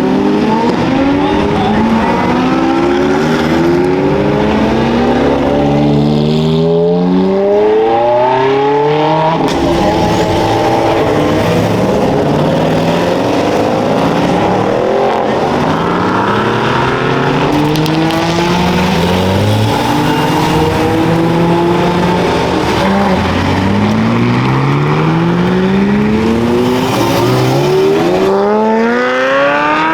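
Race car engines accelerating, several cars in turn, each note climbing in pitch and dropping back at every upshift. A steep rising run comes near the end.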